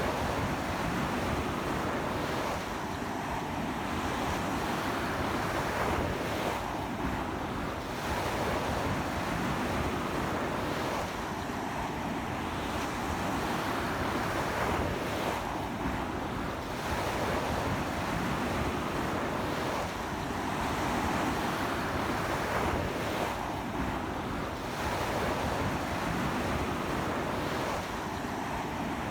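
Ocean waves breaking and washing up a beach in a very strong wind: a continuous wash of surf that swells and eases every few seconds, with wind rumbling on the microphone.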